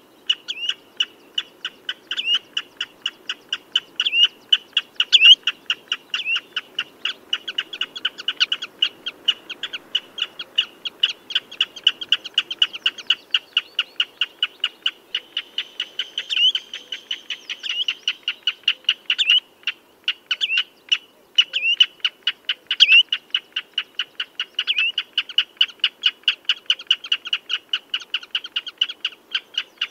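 Common redshank calling in a long, rapid series of short, sharp notes, several a second, with now and then a louder down-slurred note.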